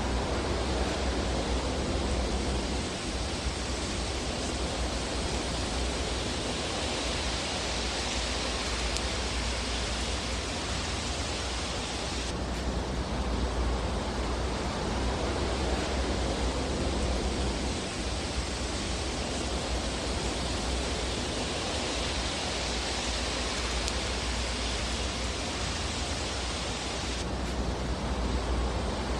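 Fireplace fire sound as a steady rushing hiss over a low rumble, swelling and easing slowly, with no distinct crackles standing out.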